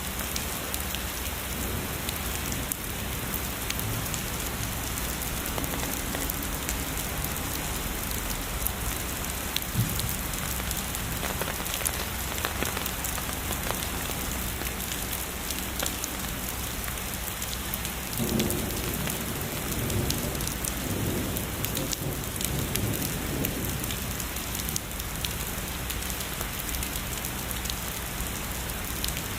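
Steady heavy rain, a dense hiss of raindrops hitting a surface. A low rumble of distant thunder swells and fades about two-thirds of the way through.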